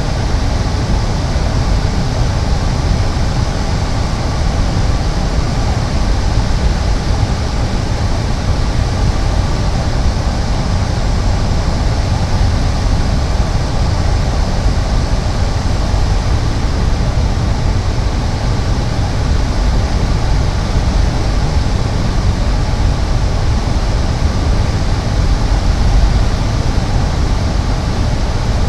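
Cessna 208 Caravan's PT6A turboprop engine and propeller running steadily, a loud, unchanging drone with faint steady tones in it, heard inside the cockpit.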